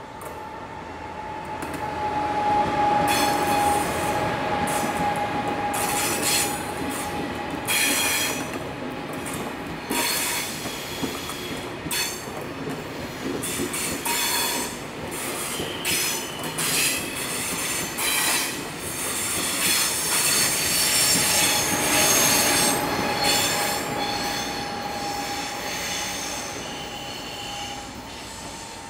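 A train passing over a railroad level crossing: its wheels knock irregularly over the rail joints and squeal against the rails. It gets louder about two seconds in, swells again around twenty seconds, and fades near the end.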